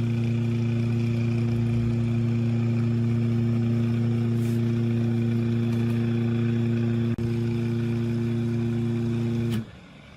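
Rewound 2 hp single-phase induction motor of an air compressor running at steady speed with a strong even hum. There is a brief click about seven seconds in, and the motor cuts off abruptly near the end.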